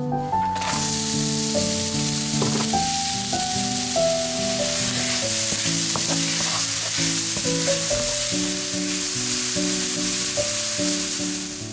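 Diced onions sizzling as they fry in a hot frying pan. The sizzle starts suddenly about half a second in as they hit the pan, and a wooden spatula stirs them now and then.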